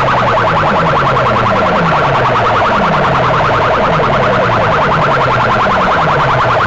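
Sound-system loudspeaker boxes blasting a siren-like competition track at full volume. A fast warbling tone plays over a low tone that slides downward again and again.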